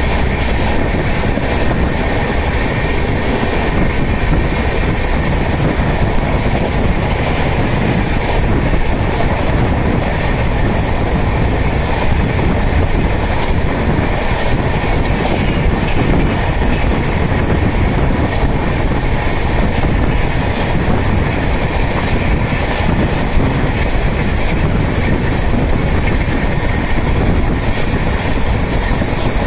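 Express passenger train running at speed, heard from beside the coach: a steady, loud rumble and rush of steel wheels on the rails, with faint clicks here and there over joints.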